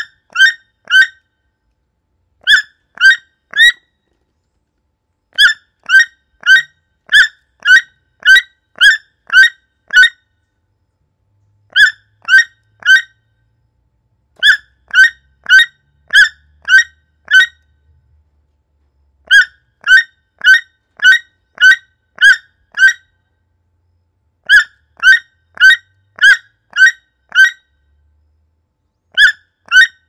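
A bird calling in series of short repeated notes, about two a second, three to eight notes per series, with pauses of one to two seconds of silence between series.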